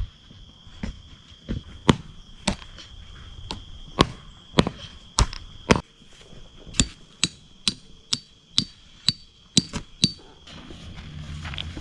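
Sharp knocking strikes, about twenty of them, irregular at first and then coming evenly at about two a second in the second half. A steady high cricket trill runs underneath.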